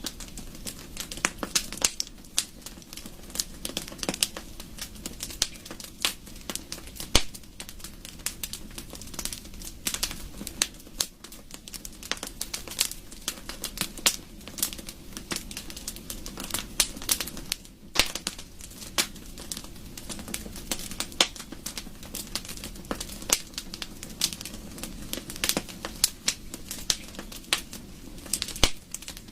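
Wood fire crackling: many irregular sharp pops and snaps over a low steady rush of burning.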